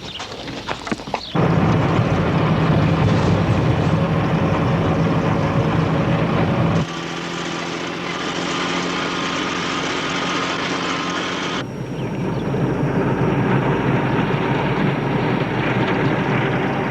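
Engine running steadily with a low, even drone that starts suddenly about a second in and changes abruptly twice, at about seven and twelve seconds in.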